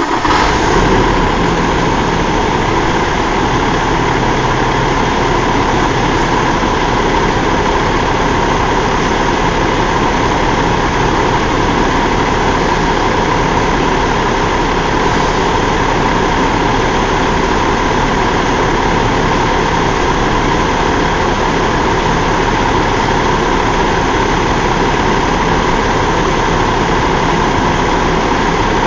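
2017 Cummins ISX15 inline-six diesel engine idling steadily just after starting, with a brief rise about a second in before settling.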